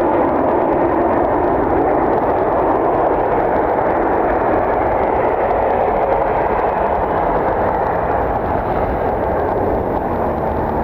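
Jet airliner engines roaring as the aircraft passes near the airport, loud and steady, easing slightly in the second half.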